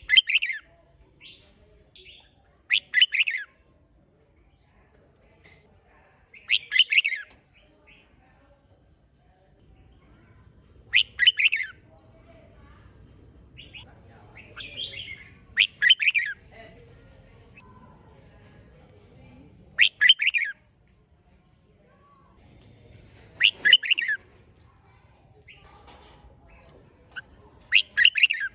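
Red-whiskered bulbul singing: short, bright warbled phrases, about eight of them, one every three to four seconds.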